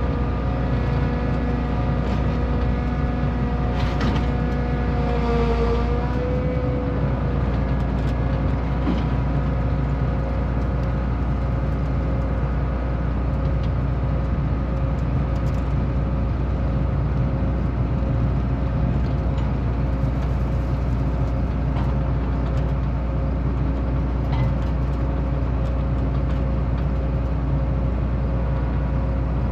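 Vehicle engine running steadily with a low rumble, its pitch dipping and coming back up briefly about five or six seconds in.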